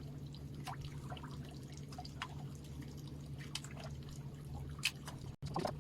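Sea water lapping and dripping against a boat's hull in small irregular splashes, over a steady low hum. The sound cuts out briefly near the end.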